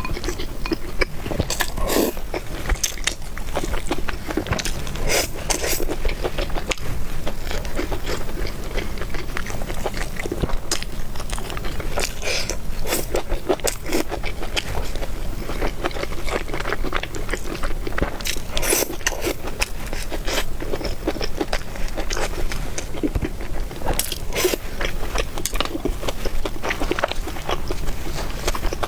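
A person eating: chewing and biting food, with a steady run of small wet clicks and crunches.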